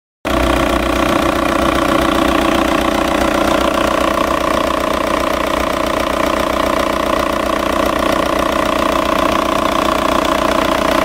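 Volkswagen-group car engine idling steadily with its timing belt cover off, the recently replaced timing belt running on its pulleys; the owner says the belt seems to work fine. The sound cuts in sharply just after the start, a steady hum with several even whining tones over it.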